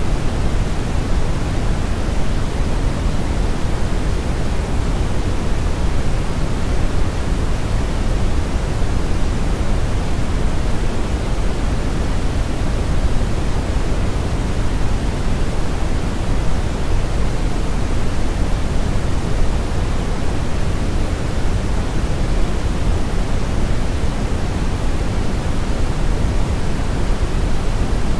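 Steady brown noise: a deep, even rushing hiss weighted heavily toward the bass, with the highs rolled off, and no changes.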